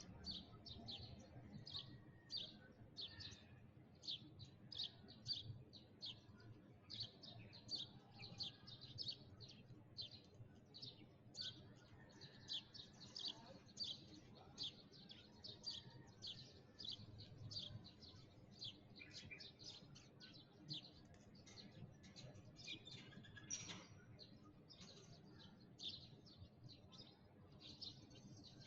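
Sparrows chirping: a continuous chatter of short, high chirps, several a second, with no pause.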